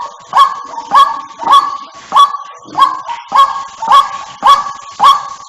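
White-breasted waterhen (ruak-ruak) calls repeated in a steady series, about nine harsh calls, one every 0.6 seconds or so. This is the lure call played to draw waterhens in.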